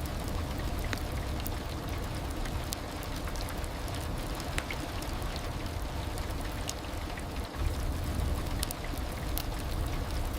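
Heavy rain falling steadily: an even hiss with a low rumble underneath and scattered sharp ticks of individual drops.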